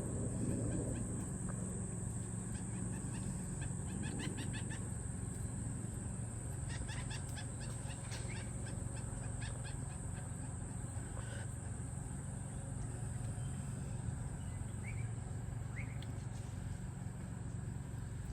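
Faint bird calls, a few short bursts of rapid chattering and a couple of brief chirps, over a steady high-pitched insect drone and a low hum.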